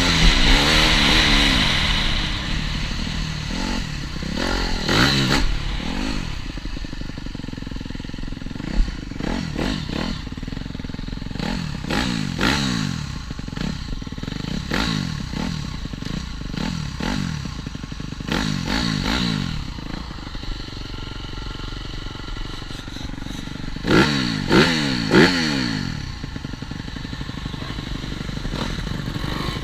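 TM Racing 250 Fi motocross bike's engine being ridden hard, the throttle opening and closing over and over, so the pitch climbs quickly and drops back in a run of short revs. Three sharp, loud blips come about four-fifths of the way through.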